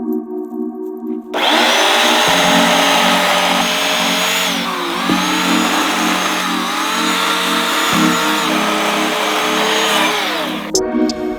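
A small motorised cutting tool runs at high speed for about nine seconds, starting and stopping abruptly. Its pitch drops and recovers twice as it bites into wood. Background music with a steady pattern runs underneath.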